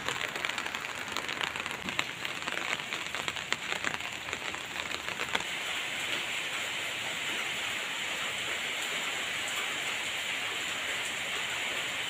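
Rain falling steadily. Scattered sharp drop ticks over the first five seconds or so give way to an even hiss.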